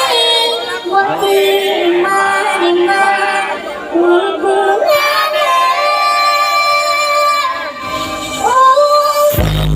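A song with a female lead vocal played loud through a large sound system, the melody gliding and bending with little bass under it, until a heavy bass beat comes in near the end.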